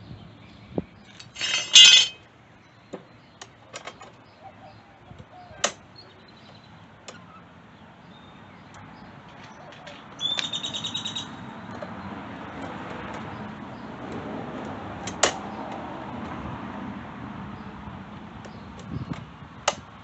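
Clicks and knocks of tools and metal parts being handled while working on a lawn mower, with two short rattling bursts, the loudest about a second and a half in and another about ten seconds in.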